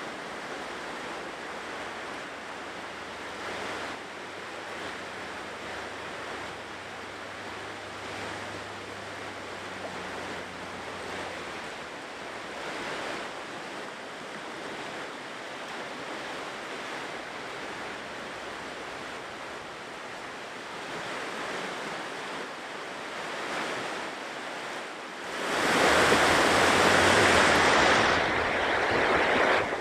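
Ocean surf washing onto a shore in gentle, repeated swells. About four seconds before the end it jumps suddenly to a much louder, hissing rush of water.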